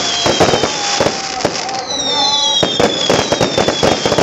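Fireworks display: a dense barrage of aerial shell bursts, rapid bangs and crackling. About two seconds in, a high whistling tone glides slowly down in pitch over the bangs.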